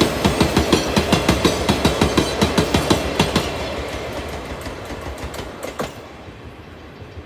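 Wheels of a Chichibu Railway freight train's hopper wagons passing close by, clattering over the rail joints in a rapid, even clickety-clack of about four to five clicks a second. After about three seconds the clatter fades as the end of the train pulls away, with one last sharp click near the end.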